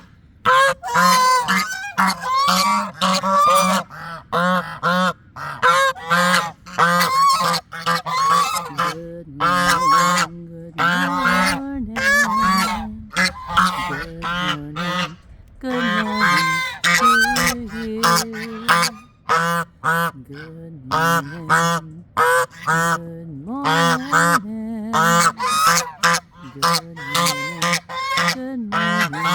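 Domestic geese honking loudly and almost without pause, many calls overlapping from several birds.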